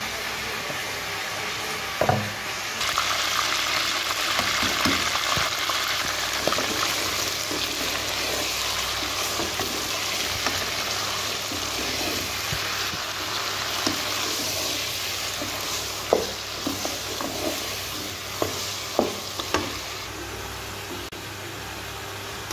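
Raw chicken pieces sizzling as they fry in hot oil in a pot, stirred with a spatula. There is a sharp knock about two seconds in before the steady sizzle takes hold, and a few sharp knocks later on.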